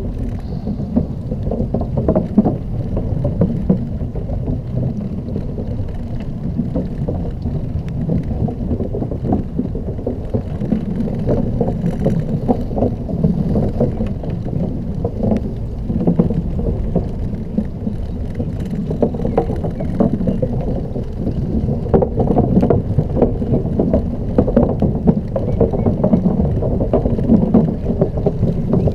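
Xiaomi M365 electric scooter rolling slowly over a rough, jolting surface: a steady low rumble with constant small rattles and knocks, and wind buffeting the microphone.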